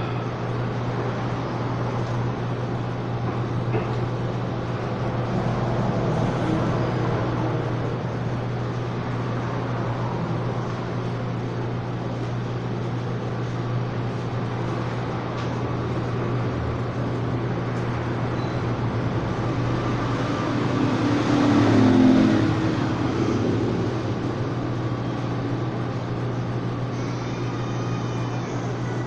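A steady low machine hum under a noisy background, swelling louder for a couple of seconds about twenty-two seconds in.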